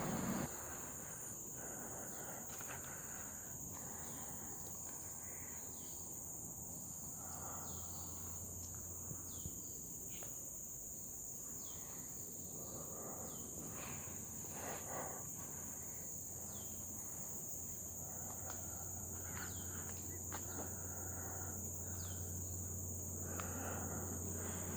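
Steady high-pitched drone of forest insects, with scattered short falling chirps over it.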